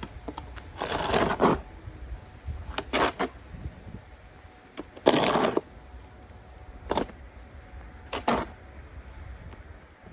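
Snow shovel scraping and scooping through snow in five irregular strokes, about a second or two apart.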